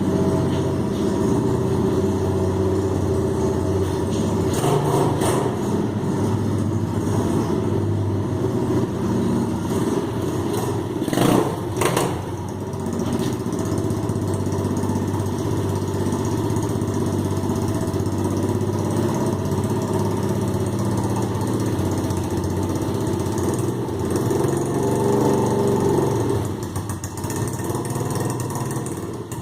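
125cc pit bike's single-cylinder four-stroke engine running at idle, with a few short throttle blips, the sharpest about eleven seconds in; it runs quieter in the last few seconds.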